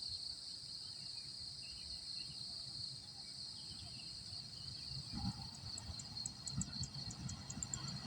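Steady high-pitched insect drone, from crickets or cicadas. From about five seconds in a faint low rumble starts to build under it.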